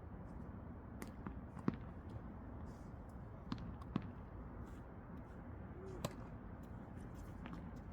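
Tennis ball hit by rackets and bouncing on the court during a rally drill: a handful of sharp pops, one every second or two, over a steady low background.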